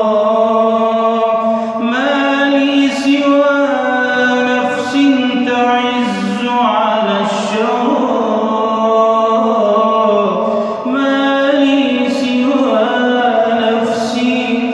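A man sings an Islamic nasheed in long, held melodic lines that step from note to note.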